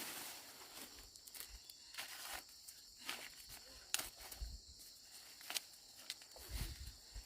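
Intermittent rustling, sharp snaps and footsteps in a field, over a faint steady hiss of insects, with a few dull thumps near the end.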